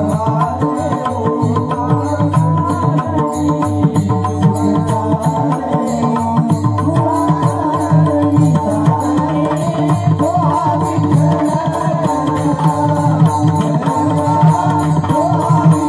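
Marathi kirtan devotional music: a voice singing a wavering melody over steady held tones, with hand drum and a fast, even beat of metallic percussion strokes.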